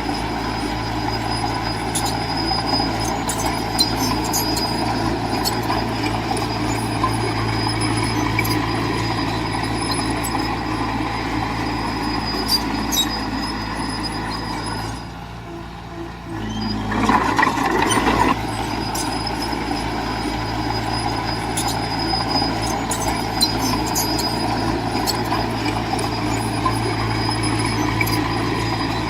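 Diesel engine of heavy earthmoving machinery running steadily, with scattered metallic clanks. About halfway through the sound drops away for a moment, then comes back louder for about a second before settling into the same steady running.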